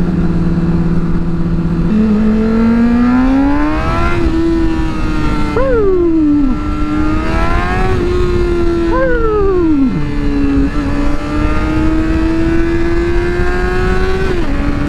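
Motorcycle engine under way, heard from the rider's helmet: the engine note climbs with throttle, twice rises sharply and then falls away as the revs drop, and drops again near the end, over steady wind rush on the microphone.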